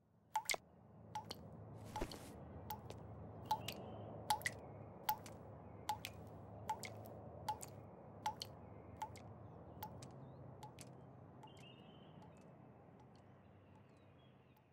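Soft regular clicks with a short pitched ring, about one every 0.8 seconds, over a faint low hum; the sound fades out near the end.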